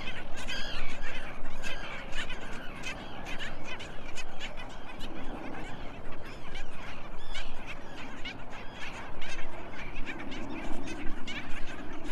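Small cage birds chirping and chattering busily and continuously, many short calls overlapping.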